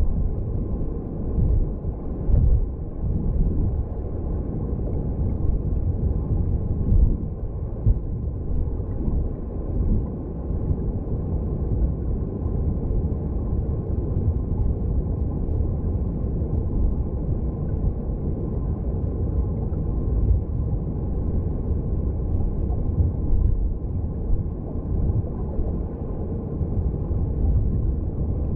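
Underwater sound of a mountain stream: a steady, low, muffled rumble of flowing water heard through a hydrophone.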